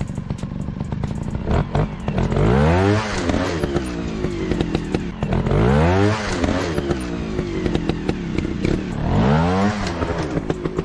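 Dirt bike engine revving up and dropping back three times, about three and a half seconds apart, running lower in between.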